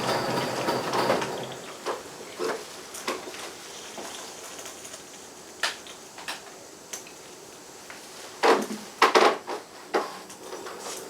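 Running noise of a live-steam model train dies away in the first second or so. Then come scattered sharp clicks and knocks of the cars and couplers, with a cluster of louder clacks about eight and a half to ten seconds in.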